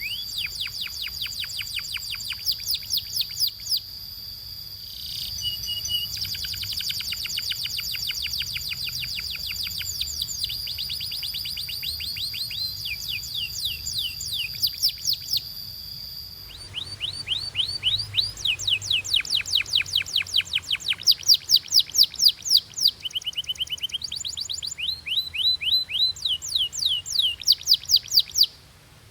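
Domestic canaries singing: fast trills of rapidly repeated high notes, one phrase after another, with a steady high whistle held under the trills through roughly the first half.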